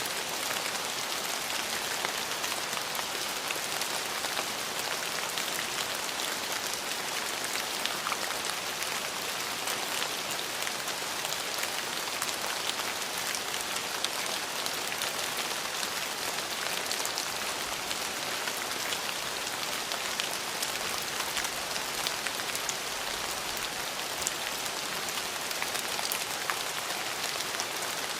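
Steady rain falling on a surface, an even patter of many close drops with no let-up.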